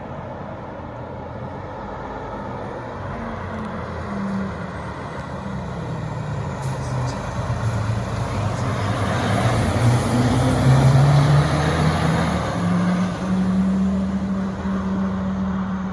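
Fire engine's diesel engine pulling away and accelerating, its pitch climbing in steps as it shifts through the gears. It grows louder to a peak about eleven seconds in, then settles into a steady drone.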